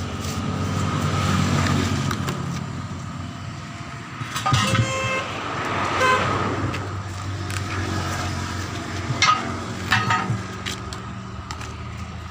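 Road traffic: a steady low engine hum with several short vehicle horn toots.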